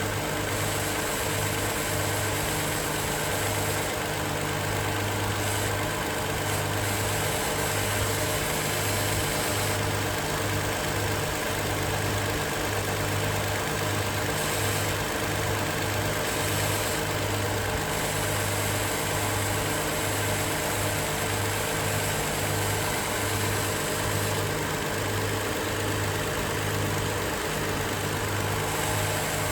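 2020 Toyota Sienna's 3.5-litre V6 idling steadily, left running to bleed air from the refilled cooling system. The new water pump runs without the rattle or growl of the worn pump bearing.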